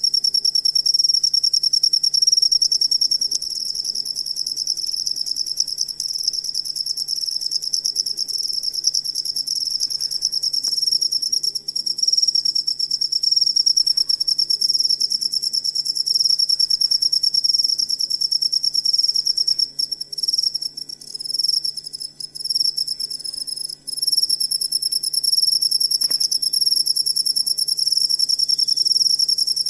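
Cricket song: a continuous, loud, high-pitched trill. It breaks up into uneven, interrupted stretches about two-thirds of the way through, then runs steady again.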